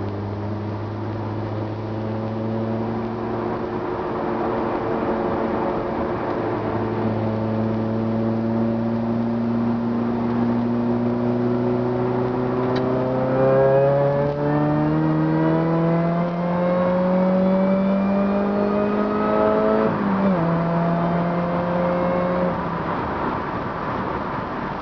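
Car engine and aftermarket mandrel-bent exhaust heard inside the cabin with the windows up. The drone is steady at first, then the revs climb under throttle for several seconds. About 20 s in the pitch drops suddenly, as at an upshift, and the engine holds steady again.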